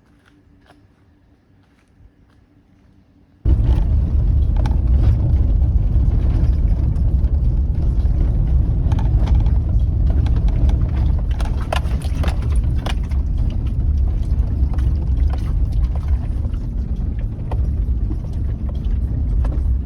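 Quiet at first, then suddenly a truck driving on a dirt forest road: a steady low rumble with tyres crunching and knocking over gravel.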